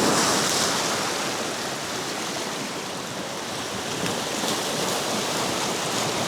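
Surf washing against jetty rocks: a steady rush of water, a little louder in the first second.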